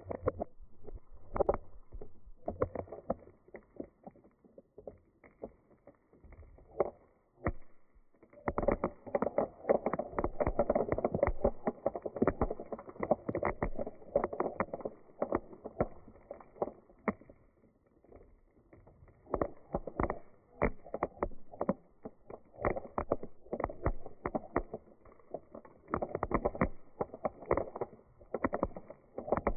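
Dried beans rolling and rattling, a dense patter of many small clicks that swells and fades in waves.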